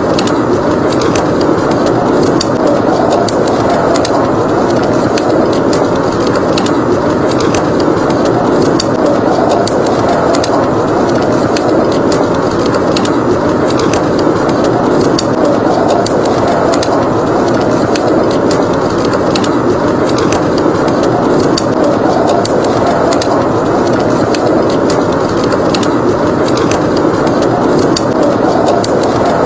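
Blizzard wind blowing steadily, swelling and easing every few seconds, with a wood fire crackling over it in frequent small pops.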